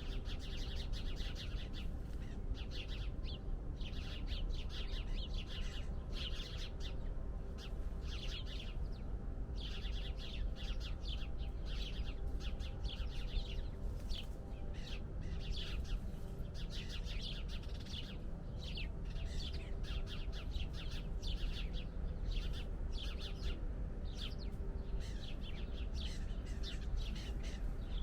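A chorus of small birds chirping continuously, many short overlapping calls in quick succession, over a steady low rumble.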